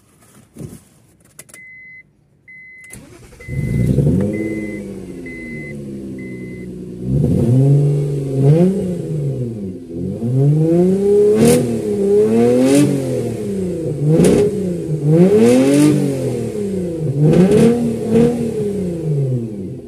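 Mazda 323 Lantis 2.0 V6 engine starting, flaring up and settling to idle, then blipped repeatedly, about seven revs rising and falling in pitch. Before it starts, a car warning chime beeps about six times at an even pace.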